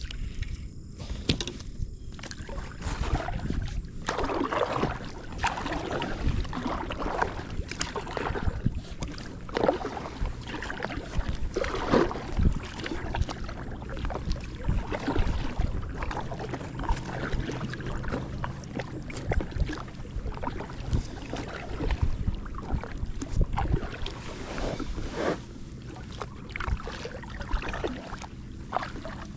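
Water splashing and sloshing around an inflatable packraft, with irregular knocks and clicks against the boat.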